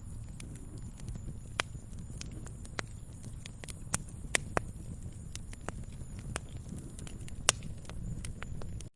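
Wood fire crackling in a fireplace: irregular sharp pops and snaps over a low, steady rumble of burning. A few louder pops stand out around the middle and near the end, and the sound briefly cuts out at the very end.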